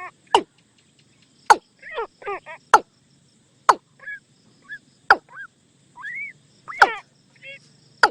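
Watercock lure calls: sharp loud knocking notes every second or so, mixed with short falling, tonal calls.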